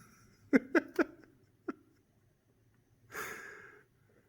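A person's breathing and small vocal sounds: three short voiced breaths about half a second to a second in, then one longer, airy breath out about three seconds in that fades away.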